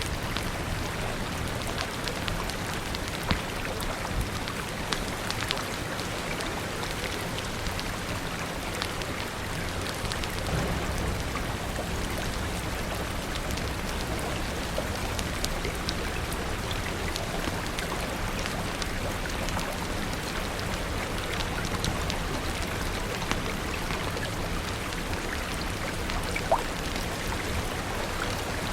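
Steady rain falling, with constant pattering drops and a few sharper crackles from a fire scattered through it.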